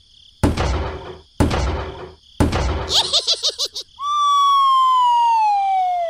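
Three hammer strikes about a second apart, then a short rapid warbling sound effect, then a long cartoon whistle falling slowly in pitch.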